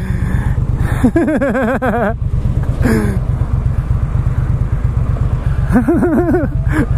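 Motorcycle engine running with a steady low rumble while riding. Over it, a man's voice calls out twice with a wavering pitch, about a second in and again near the end.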